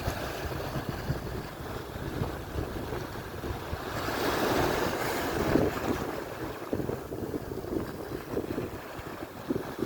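Atlantic surf: waves washing and breaking on the shore, one swelling and fading about four to six seconds in, with wind buffeting the microphone in an uneven low rumble.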